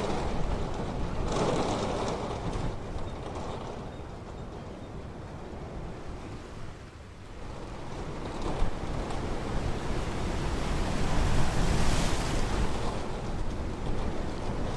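Ocean waves washing onto a beach: a wave breaks about a second in, the surf falls to a lull midway, then another wave builds and breaks near the end.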